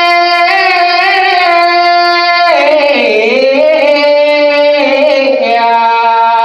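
A woman singing long, held notes in one voice, with a wavering slide down in pitch about halfway through before settling on a steady note again.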